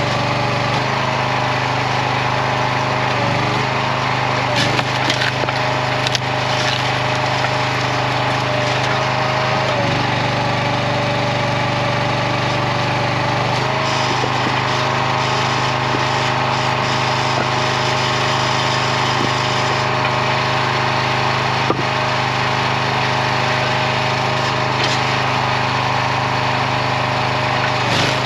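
Small gas engine of a RuggedMade log splitter running steadily, its pitch sagging briefly about four times as the hydraulic ram comes under load splitting red oak. There are a few sharp cracks of wood.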